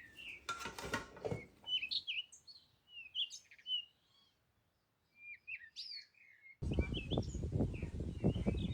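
Small birds chirping in short, quick calls. About two seconds in the background noise drops away to leave only the chirps, and near the end a louder rustling background noise starts abruptly beneath them.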